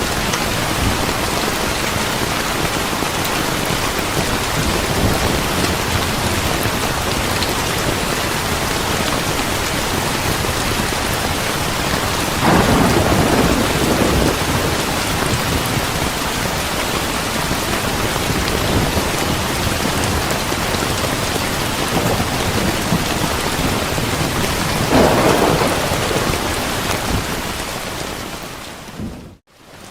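Steady heavy rain, a dense even hiss, with two brief louder swells, one about halfway through and one near the end. Just before the end the sound fades quickly to near silence and comes straight back, as at a loop point of the recording.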